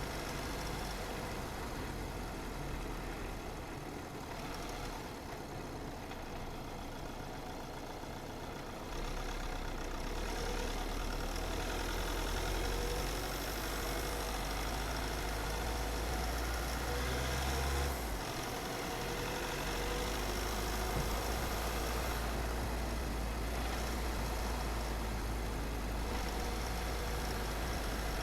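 Car driving along a road: a steady low engine and tyre rumble that grows louder about a third of the way in and dips briefly around two-thirds of the way through.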